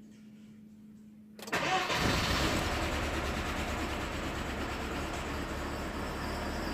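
Evotech 2.7 four-cylinder petrol engine starting about a second and a half in, then running steadily.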